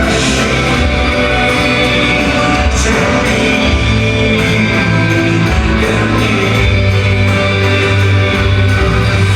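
Loud live rock music from a band on stage, with a singer.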